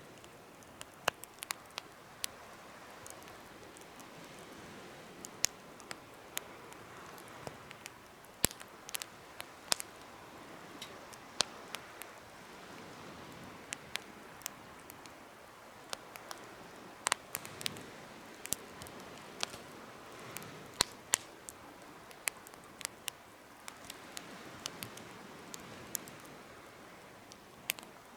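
Wood campfire crackling: irregular sharp pops and snaps, some close together, over a soft steady hiss of burning.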